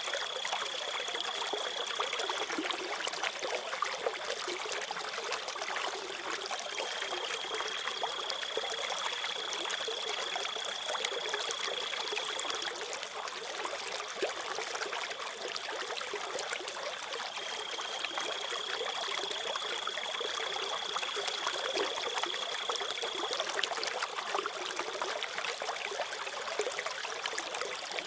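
Water trickling and babbling in a small stream, with a cricket chirping on one steady high note in long stretches. The note stops about two seconds in, comes back for about six seconds, stops again, and returns for another six seconds or so.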